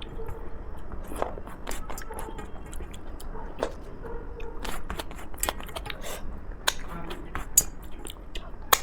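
Close-miked chewing and mouth sounds of a person eating, with irregular wet clicks and smacks, the sharpest near the end.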